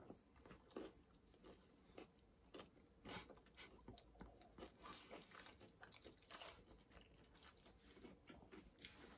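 Faint, irregular crunching and chewing as two people bite into and eat crisp-crusted mini pizzas (Piccolinis), heard close up.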